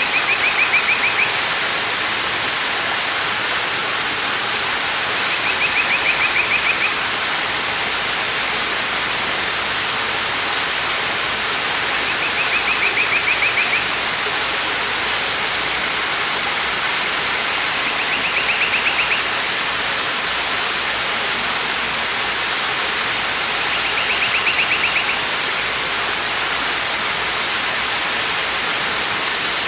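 Waterfall rushing with a steady, even roar of water. Five times, about every six seconds, a short buzzy trill of about a second and a half sounds above it.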